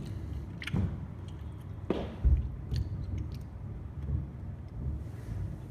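Distant aerial fireworks booming: a continuous low rumble of shell bursts with a few sharper cracks, the loudest thump about two seconds in.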